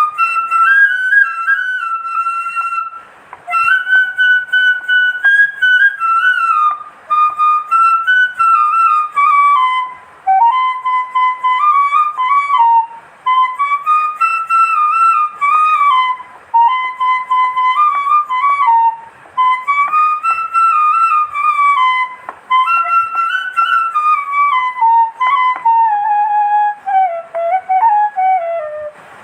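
Background music: a solo flute playing a slow, gliding melody in phrases, with short pauses between them.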